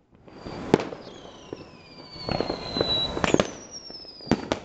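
Fireworks going off: sharp bangs and crackling, with two high whistles that slowly fall in pitch, the second starting with a loud bang about three seconds in.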